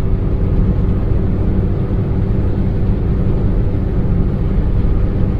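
Maruti Suzuki Baleno's inline four-cylinder engine and tyres heard from inside the cabin while the car drives along: a steady low engine hum over even road noise.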